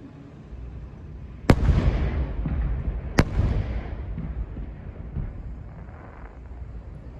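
Aerial fireworks shells bursting: two sharp bangs about a second and a half apart, each followed by a crackling, fading tail and echo.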